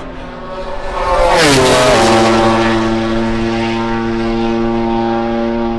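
MotoGP race motorcycle passing at high speed: its engine note swells to its loudest about a second and a half in, drops in pitch as it goes by, then holds one steady high note as it pulls away.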